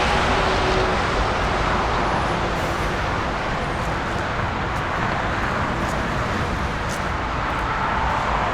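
Steady roar of jet aircraft engines with a deep rumble underneath, easing slightly and building again near the end.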